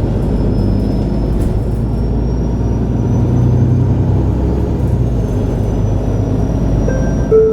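MAN Lion's City G articulated city bus heard from inside while driving: a steady engine and rolling rumble. A short clear tone sounds near the end.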